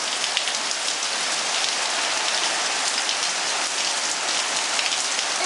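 Heavy rain pouring down, a dense steady hiss with many individual drops ticking and splashing on hard surfaces.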